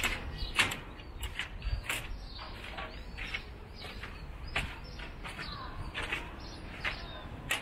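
Birds calling outdoors in short, repeated chirps, some rising or falling in pitch, over a steady low rumble.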